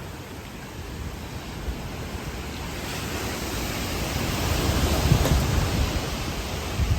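Hurricane Ian's high winds gusting with rain, buffeting the microphone with a low rumble. The gust builds from about three seconds in, peaks near five seconds, then eases off.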